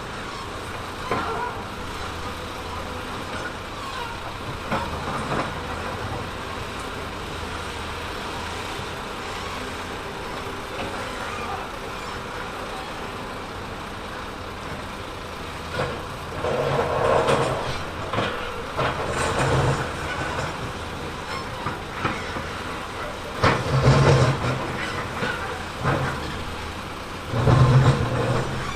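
Heavy earthmoving machine's diesel engine running steadily, with several louder surges of a second or two in the second half as it works under load.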